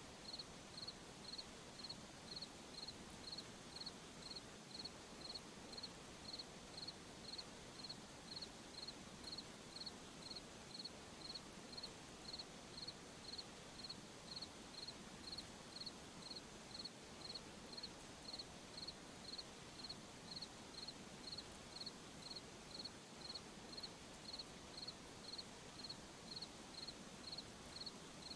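A cricket chirping steadily, about two short, high chirps a second, over a faint hiss of night-time background noise.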